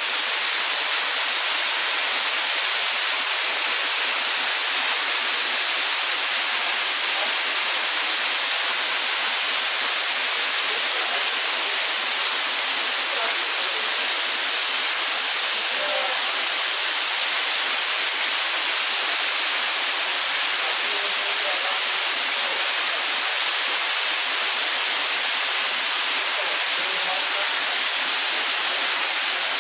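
Waterfall: a steady hissing rush of falling water, mostly high in pitch with little low rumble, unchanging throughout.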